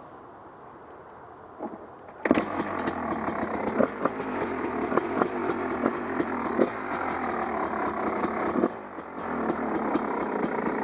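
Husqvarna WR 300 two-stroke engine running with a buzzy note, then about two seconds in it suddenly gets much louder as the bike is ridden under throttle, with a short easing off near the end. Wind buffets the Contour Roam 2 action camera's microphone, adding rough rumble and many crackling pops over the engine.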